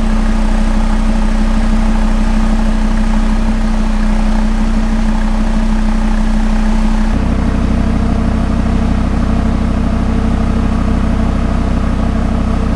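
Audi RS Q3's 2.5 TFSI five-cylinder engine running steadily through the optional RS sports exhaust. About seven seconds in the exhaust note changes, turning deeper and rougher.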